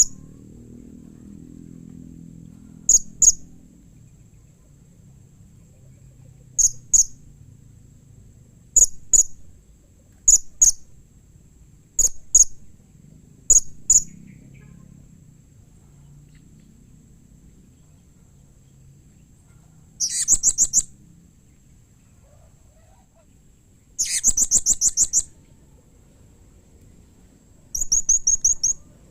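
Blue-crowned hanging parrot (serindit) calling: sharp, high double chirps every couple of seconds, then three longer, rapid, trilling bursts in the second half.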